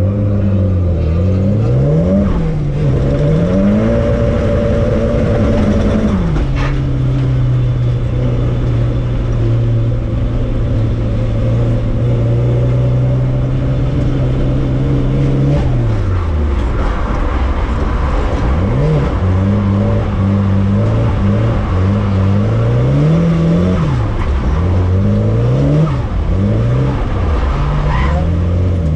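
Car engine heard from inside the cabin, its pitch rising and falling with the throttle and gear changes. For about ten seconds in the middle it holds a steady pitch, then it swings up and down quickly again.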